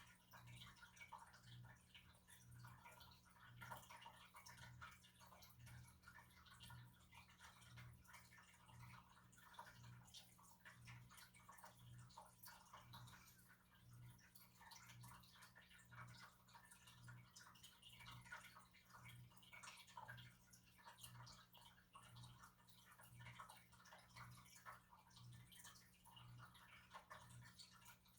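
Near silence: faint room tone with a low hum that pulses about once a second, and faint scattered crackling.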